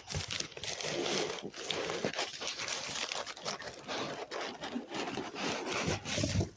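Cardboard shipping box being opened and its paper packing handled: continuous crinkling and rustling with small crackles and scrapes, which stops abruptly near the end.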